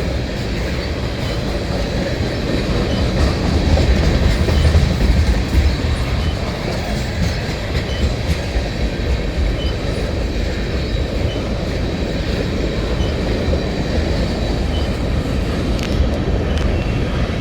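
Freight train of tank cars rolling past, a steady rumble of steel wheels on rail that swells a few seconds in.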